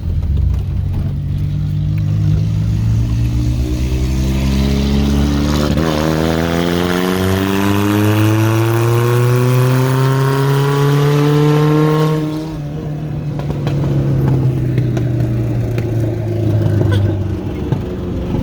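Car engine accelerating hard, rising in pitch, with a gear change about six seconds in. It climbs again until the throttle is lifted about twelve seconds in.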